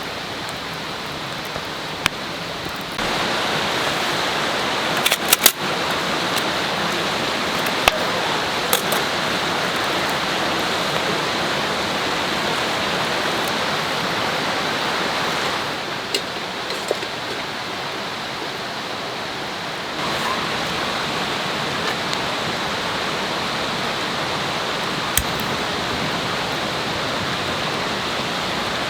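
Steady rushing of a flowing river, with a few sharp clicks and knocks about five, eight and twenty-five seconds in. The level jumps up about three seconds in, dips for a few seconds in the middle and comes back up.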